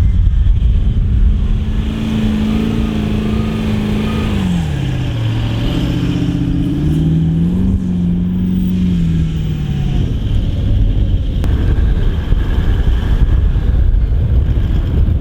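A 4WD's engine working hard as it drives up soft sand on a dune. It holds a steady pitch, drops sharply about four seconds in, climbs again, then falls away and fades into the background about ten seconds in.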